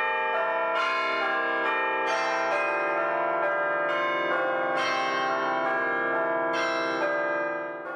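Bells ringing, a new bell struck about every second and a half so that the notes overlap; the ringing fades away near the end.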